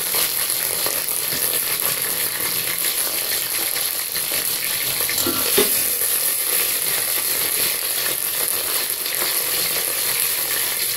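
Tempering sizzling and crackling steadily in hot oil in a steel pot: sliced ginger, dried red chillies, curry leaves, mustard seeds and cumin frying. A spoon stirs it, with a few light knocks about halfway through.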